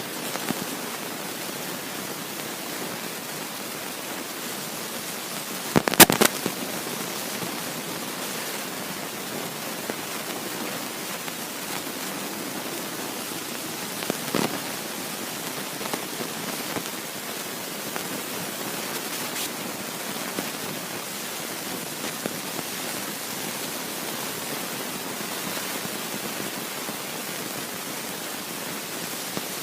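Steady rushing noise of a moving train, with a loud cluster of sharp clicks about six seconds in and a smaller knock near the middle.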